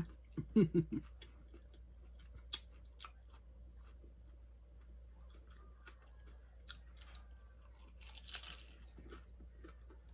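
Close-up chewing of a crunchy hard-shell taco, with sharp crunches and wet mouth clicks scattered throughout and a slightly louder spell of crunching about eight seconds in.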